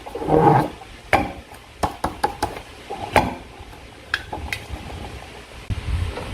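Slime being stirred and squished in a container: a loud squelch at the start, then scattered sharp clicks of a utensil against the container, and a low handling rumble near the end.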